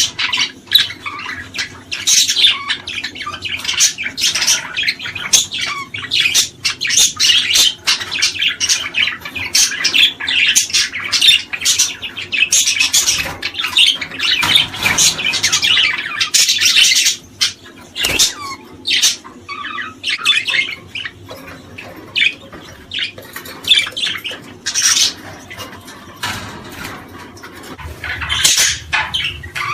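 Many small songbirds chirping and twittering at once, a dense run of quick, high overlapping calls that thins for a few seconds past the middle and picks up again near the end.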